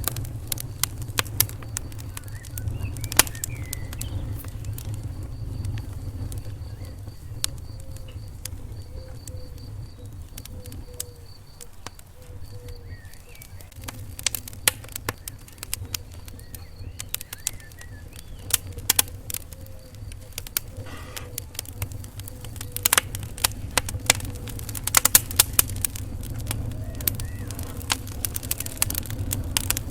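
Wood fire crackling in a fireplace: irregular sharp pops and snaps over a steady low rumble of the flames, with a busier run of pops a little past the middle.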